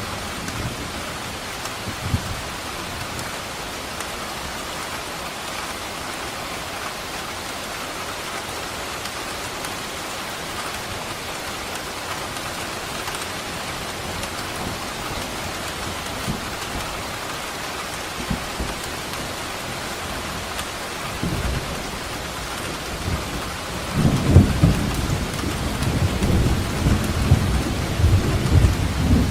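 Steady rain with a thunderstorm: an even hiss of falling rain, and from about three-quarters of the way through, a low rolling rumble of thunder that grows louder toward the end.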